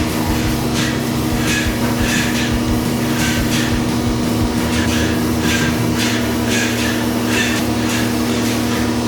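Airless paint sprayer spraying epoxy primer: a steady machine hum under short hissing bursts of spray, about two a second.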